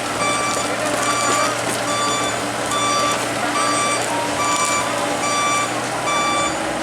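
Komatsu excavator's travel alarm beeping steadily, a little faster than once a second, over the diesel engine running.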